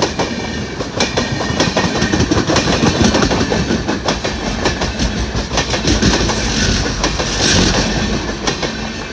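Indian Railways express train passing at high speed, its wheels clicking over the rail joints in a rapid, irregular clatter over a steady rumble. The noise begins to fade right at the end as the train goes by.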